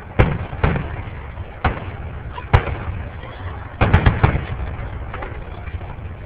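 Fireworks shells bursting in a string of booms, with a quick cluster of several bursts near the middle.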